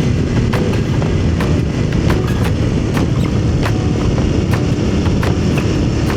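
Aprilia Tuareg motorcycle on the move: a steady low rumble of engine and road noise, with frequent short, sharp ticks scattered through it.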